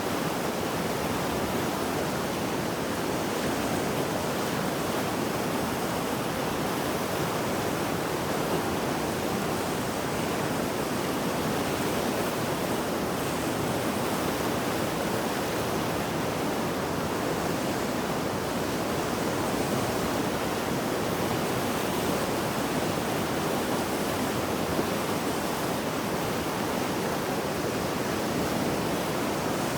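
Mountain river swollen by heavy rain and flooding, rushing steadily with an even roar of churning water.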